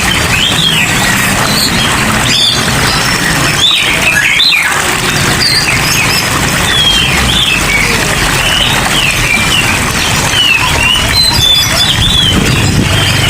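Many small caged songbirds chirping and calling over one another in quick, short notes, over a steady hiss of rain and a low hum.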